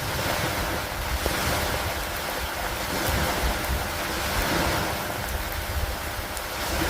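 Steady rain falling on wooden dock planks and lake water, an even hiss with an uneven low rumble beneath it.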